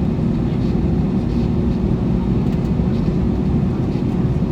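Steady cabin noise inside an Airbus A321 on the ground before takeoff: a low, even rumble from the engines at low power and the air conditioning, with a faint steady hum through it.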